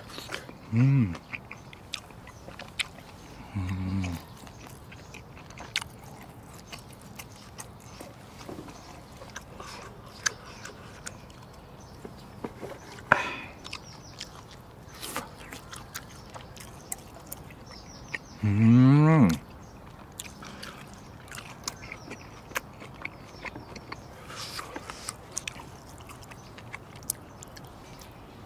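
Close-miked chewing of bites of dry-aged steak, with many small wet mouth clicks. A few short closed-mouth "mm" hums break in, one about a second in, one about four seconds in, and a longer, louder one rising in pitch about two-thirds of the way through.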